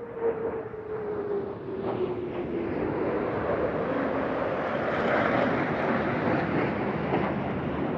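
Fighter jets flying over. A single engine tone drops in pitch during the first few seconds, under a wide jet roar that builds and is loudest about five seconds in.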